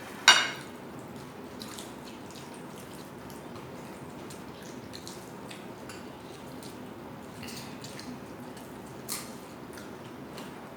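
People eating at a table: small wet clicks and squishes of chewing and handling food, with a sharp clink that rings briefly just after the start and another short click near the end.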